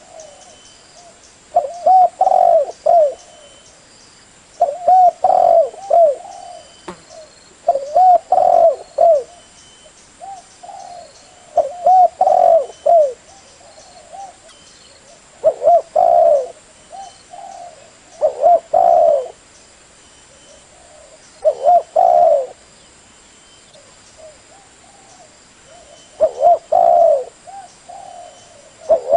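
Spotted dove cooing: a phrase of low coos about a second long, repeated roughly every three seconds. This is the call used as a lure to draw doves in for trapping.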